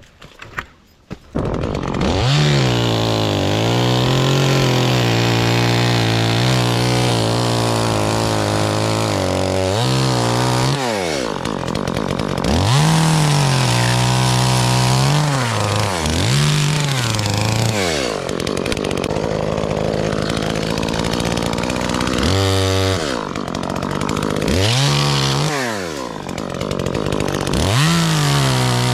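Gasoline two-stroke chainsaw starting about a second in, then running at high revs with the throttle repeatedly let off and opened again, its pitch dropping and swooping back up several times.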